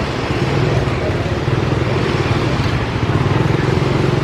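A motor vehicle's engine running steadily close by, over general street noise, getting a little louder about a second in.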